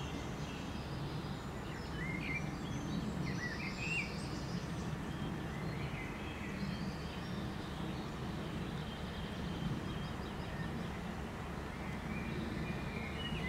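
Small birds chirping and calling on and off, short rising and falling notes, over a steady low background rumble.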